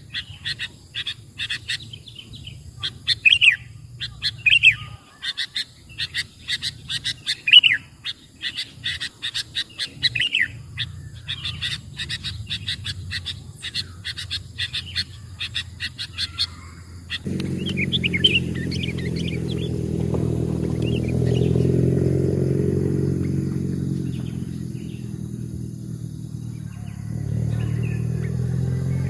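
Sooty-headed bulbuls chirping rapidly, with louder calls now and then. About seventeen seconds in the chirping thins and a motor engine's low hum comes in, swells, fades, and rises again near the end.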